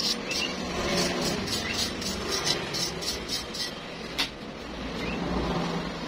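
Stick welding arc crackling and sizzling steadily, with a sharp click about four seconds in.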